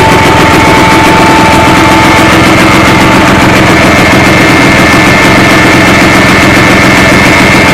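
IZh-350's single-cylinder two-stroke engine running steadily during break-in, with an even, rapid firing beat. It is recorded very loud, close to distorting.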